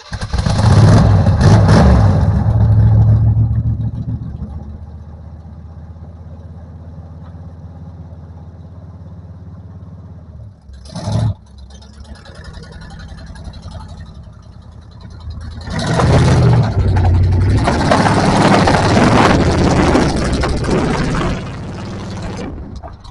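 Off-road 4x4 truck engine revving hard for a few seconds, then settling to a steady idle, with a brief loud noise about eleven seconds in. It revs again under load from about sixteen seconds to twenty-one seconds.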